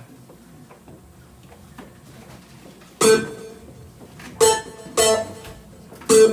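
Guitar strumming single chords. After about three quiet seconds come four short, sharp strummed chord hits, the last three close together near the end.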